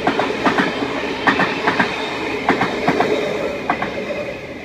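V-set double-deck intercity electric train passing, its wheels clacking irregularly over the rail joints and points. The sound fades away near the end.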